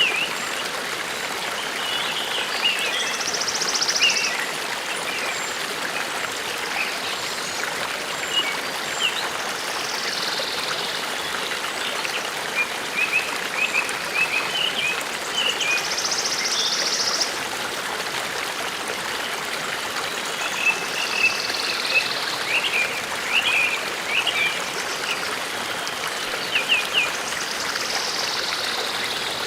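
Forest stream running steadily, with songbirds singing over it: a short high song phrase repeated about every six seconds, and scattered chirps in between.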